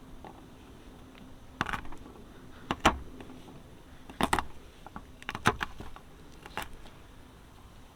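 Cookware and utensils being handled during food preparation: about six sharp, irregular knocks and clinks, with a faint steady hum underneath.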